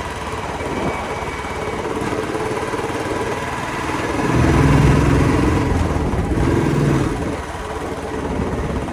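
Royal Enfield motorcycle engine running, growing louder and deeper for about three seconds in the middle before easing back.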